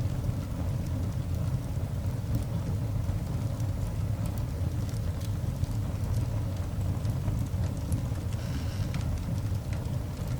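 Coal fire burning in a cast iron dog grate: a steady low rumble with faint, scattered crackles, and a brief hiss near the end.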